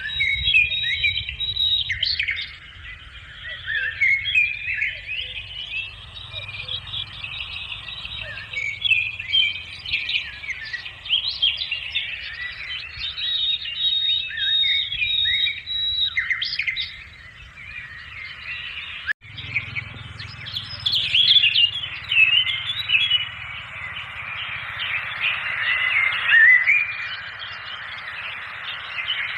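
A chorus of many birds chirping and calling, dense short high chirps overlapping one another, over a low steady rumble. It breaks off for an instant about two-thirds of the way through.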